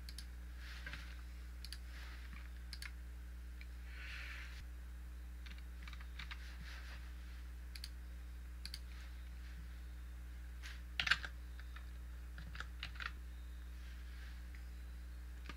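Scattered computer mouse clicks and keyboard keystrokes, a few at a time, with a louder cluster about eleven seconds in, over a steady low hum.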